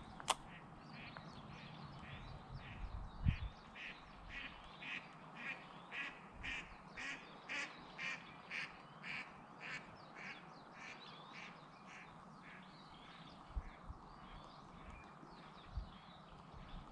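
A bird calling a rapid series of short notes, about two a second, for several seconds before fading out. A sharp click just after the start and a low thump about three seconds in.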